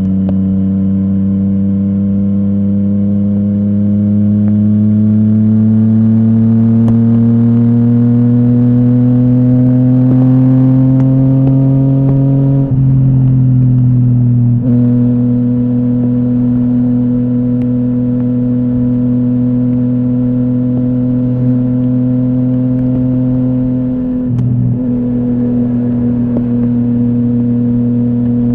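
Yamaha MT-09's inline-three engine through a full Akrapovic exhaust, pulling under steady throttle with its pitch climbing slowly for about twelve seconds. Around halfway it dips briefly and then holds a steady note, with another short dip near the end.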